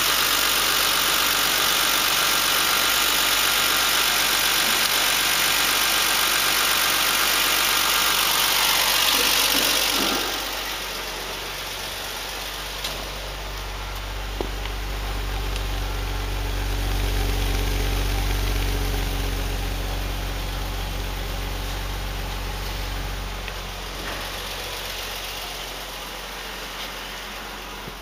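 Toyota Altezza's 1G-FE two-litre straight-six held at high revs for about ten seconds, then falling back to a steady idle that swells slightly midway and settles.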